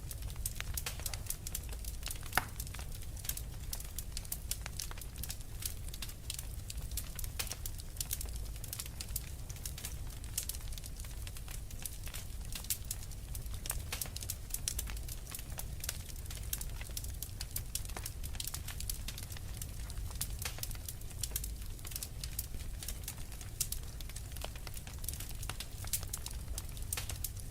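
Fireplace fire crackling steadily: frequent irregular small pops and snaps over a low, even rumble of the flames.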